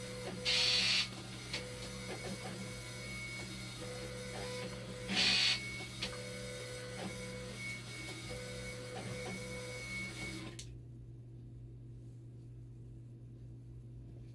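Dialysis machine's acid and bicarbonate pumps running with an abnormal noise: a short tone repeating about every second and a half over a steady hum, with two brief loud hissing bursts. The noise comes with the pumps showing red and is suspected to come from a faulty sensor board rather than the pumps. It cuts out about ten and a half seconds in, leaving a low hum.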